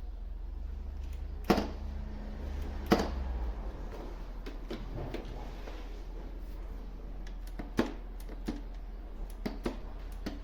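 A few sharp knocks and clicks, the two loudest close together early on and several lighter ones near the end, over a low steady hum.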